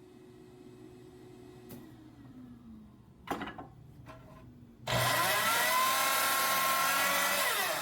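A power saw motor winding down early on and a couple of knocks around the middle, then the saw switched on about five seconds in, spinning up and running loudly for nearly three seconds before starting to wind down near the end.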